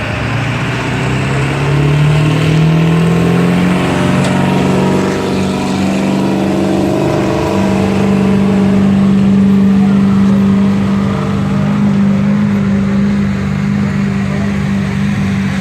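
A pulling truck's engine under heavy load, revs climbing over the first few seconds and then held high and steady as it drags the sled.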